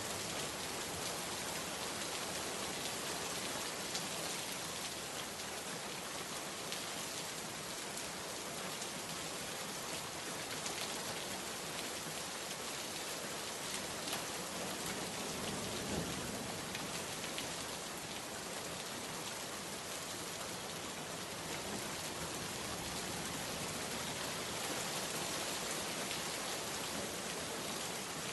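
Steady heavy rainfall on surfaces: a dense, even hiss of drops with scattered individual drop ticks.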